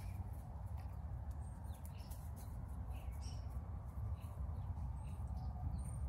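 Small songbirds giving short, high chirps and calls at scattered moments, over a steady low rumble.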